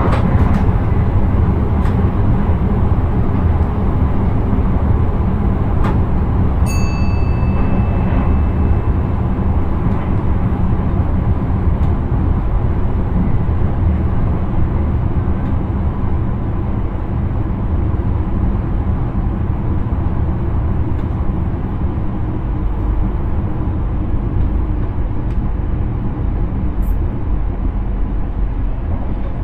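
Intercity train running along the line, heard from inside the driver's cab: a steady deep rumble of wheels and running gear on the rails. About seven seconds in there is a short, high beep.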